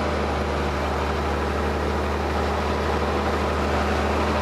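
Ford TW tractor's diesel engine running steadily under load while pulling a plough, a constant low drone with no change in pitch.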